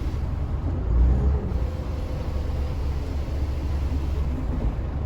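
Scania L94UA bus's diesel engine running with a steady low rumble, swelling louder briefly about a second in.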